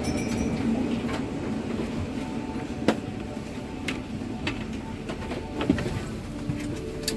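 Airliner cabin noise during boarding: a steady hum of the air supply with a few sharp clicks and knocks scattered through it.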